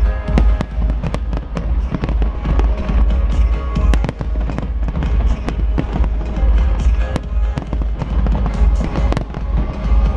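A fireworks display: rapid, irregular bangs and crackles going off continuously, with music playing underneath and a heavy low rumble.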